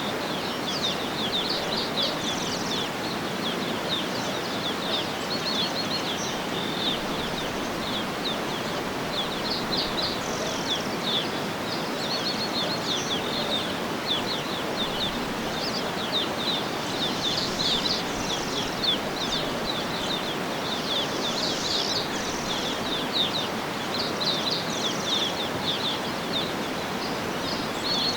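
Birds chirping, with clusters of quick high notes coming again and again, over a steady rushing background noise.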